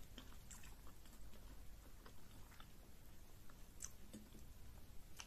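Faint wet mouth sounds of a person chewing a mouthful of pounded yam fufu dipped in banga soup, with scattered small smacks and clicks.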